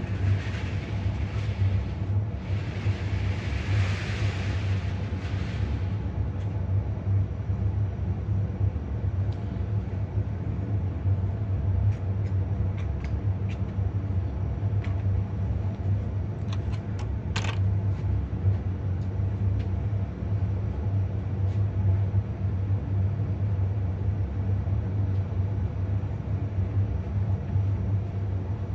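HO-scale model locomotive (Bachmann Toby the Tram Engine) running on its track pulling a coach: a steady low motor hum and wheel rumble with scattered light clicks. A hiss sits over it for the first six seconds or so and then stops.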